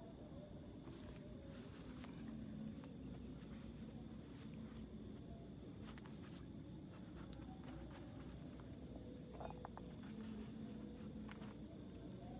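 Crickets chirping in a steady repeating pattern: a short high trill alternating with a quick run of pulses, over a low even rumble with a few faint clicks.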